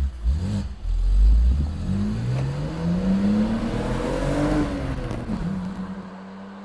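BMW 125i Cabriolet's straight-six pulling away and accelerating hard, the engine note climbing in pitch for several seconds. It drops about four and a half seconds in, then holds a steady note and fades as the car drives off.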